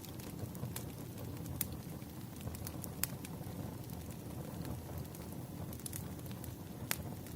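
Wood fire burning: a steady low rumble with sharp crackles and pops at irregular moments, the strongest about three seconds in and again near the end.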